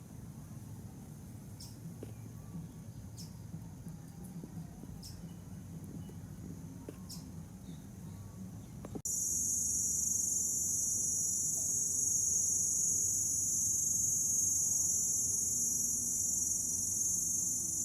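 A faint background with a few short, thin high chirps, then about halfway through a loud, steady, shrill chorus of singing insects starts abruptly and holds, with no change in pitch.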